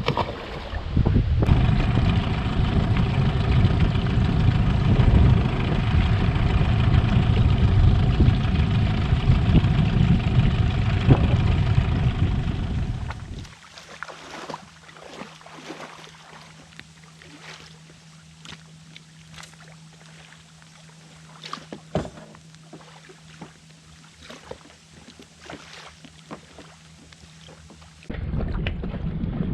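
Boat's outboard motor running under way with wind on the microphone, a loud low rumble with a steady engine pitch. About halfway through it cuts off sharply to a quiet stretch with a faint low hum and scattered small clicks, and the loud running noise returns near the end.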